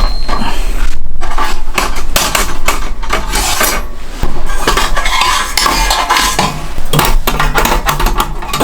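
Metal cookware and utensils clinking and clattering in many quick, irregular knocks, as when handling pots, pans and cutlery during camp cooking.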